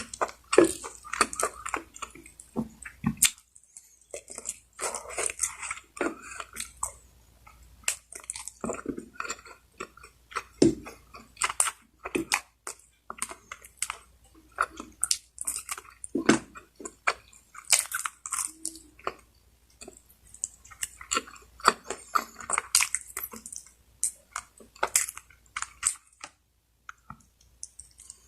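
A person chewing and smacking mouthfuls of lechon manok (spit-roasted chicken) close to the microphone, with many irregular wet clicks and smacks and two short pauses, one about four seconds in and one near the end.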